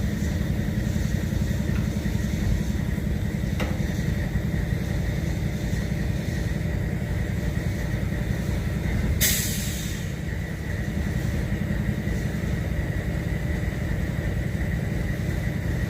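Diesel freight locomotives idling: a steady low rumble. A short burst of air hisses about nine seconds in.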